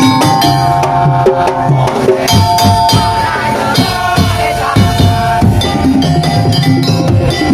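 Percussion ensemble playing tongtong/daul-style music: drums and wooden percussion beat out a fast, steady rhythm under a held melodic line.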